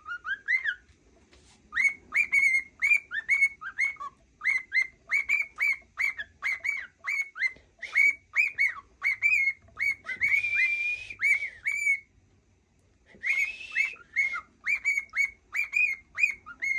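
Cockatiel whistling a rapid string of short upswept notes, about three a second. A longer held note comes near the middle, then a brief pause, and the run starts again.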